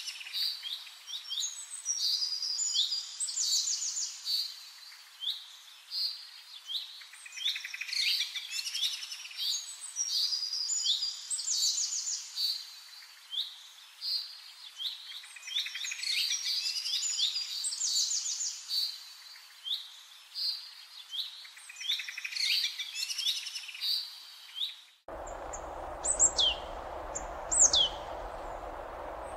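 Several songbirds singing at once, a busy mix of varied chirps and trills. About 25 seconds in, this cuts suddenly to a steady background hiss with a few sharp, high, downward-sliding whistle calls.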